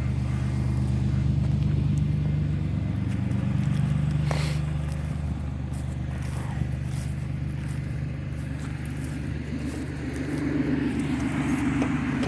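A vehicle engine idling steadily, a low hum that shifts slightly in pitch now and then, with a single sharp click about four seconds in.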